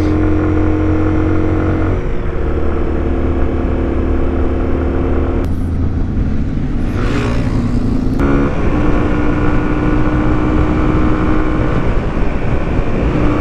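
Motorcycle engine running at a steady cruising speed, with wind noise over it. The engine note holds level and shifts to a new pitch about 2 seconds in, again around 5 and a half seconds, and once more around 8 seconds in.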